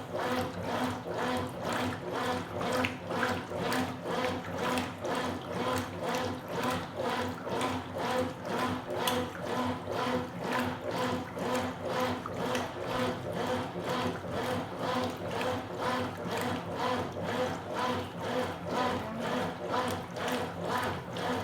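Consul Supercargo 8 kg (CWL08C) top-loading washing machine agitating a load of towels in water: the agitator swings back and forth at about two strokes a second over a steady motor hum, with the water sloshing.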